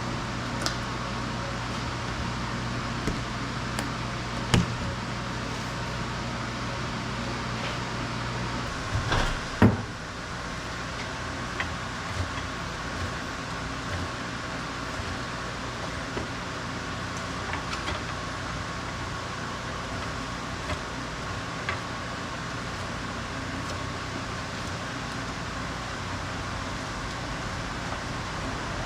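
A steady mechanical hum that stops about nine seconds in, over constant workshop background noise. A few sharp clicks and knocks are scattered through, the loudest a short cluster of knocks just after the hum stops.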